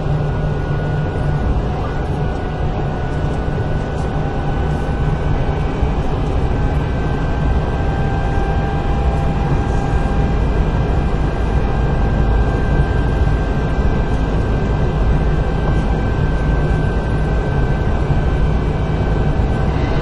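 Kintetsu 8000 series electric train running at speed, heard from inside the car: a steady rumble of wheels on rail with a thin motor whine that rises slightly in pitch about a third of the way in.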